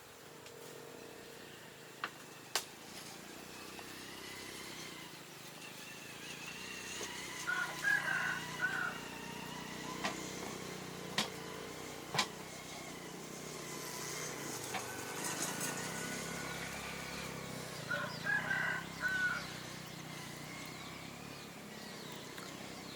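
Chickens calling twice, once about a third of the way in and again near the end, with a few sharp knocks in between.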